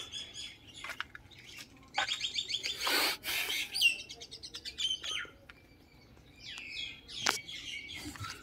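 Birds chirping and calling: a quick run of repeated high notes, then whistled rising and falling calls. A sharp knock sounds about seven seconds in.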